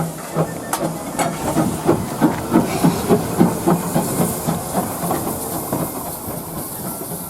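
Steam locomotive and train passing, with a run of regular beats about four a second under a steady hiss of steam. The beats ease off in the second half.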